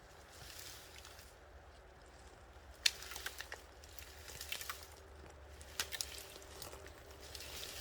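Dry twigs and brushwood crackling and snapping in short irregular bursts, starting about three seconds in.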